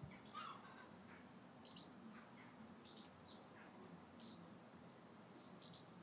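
Faint, short, high chirps from a small bird, repeating about once a second, with a few thinner, lower calls near the start.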